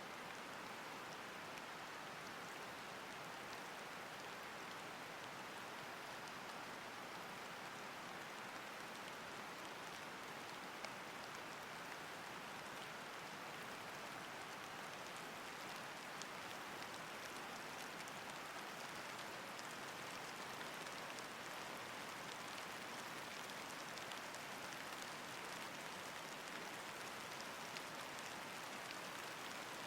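Steady rain falling, a continuous even hiss with scattered fine drop ticks.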